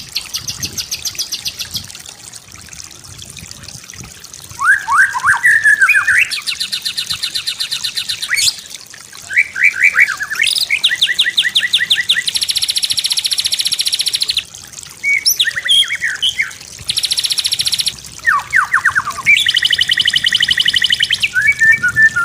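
White-rumped shama singing a varied song of separate phrases: rapid repeated-note trills, slurred whistles, and dense buzzy rattles, with short gaps between phrases.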